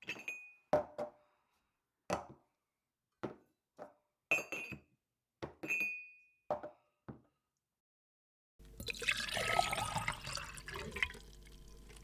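Glass bottles clinking together in a run of about ten sharp knocks, several ringing briefly. After a short pause, liquid is poured into a glass for a few seconds, louder at first and then trailing off.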